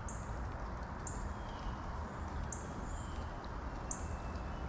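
A bird repeating a short, very high call that drops slightly in pitch, about once every second, with fainter lower calls in between, over a steady low rumble.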